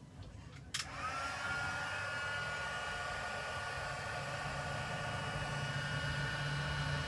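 Embossing heat gun switched on with a click about a second in, its fan motor whining up in pitch and settling into a steady blowing hum as it heats black embossing powder.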